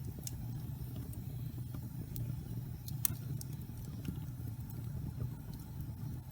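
Wood logs burning in a fireplace: a steady low rumble of the fire with scattered sharp crackles and pops, the loudest pop about three seconds in.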